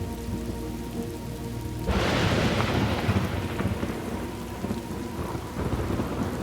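Thunderstorm: rain falling steadily, with a sudden thunderclap about two seconds in that rumbles away over the next few seconds.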